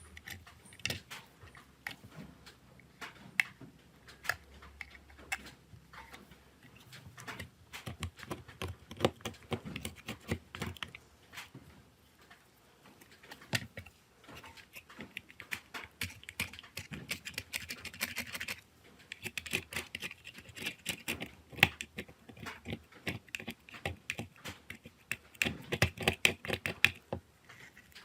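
Many irregular small clicks and taps, like small hand tools and plastic or metal parts handled on a smartphone being taken apart or repaired. They come thicker in the second half.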